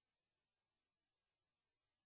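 Silence: an essentially empty soundtrack with only a faint, even digital hiss.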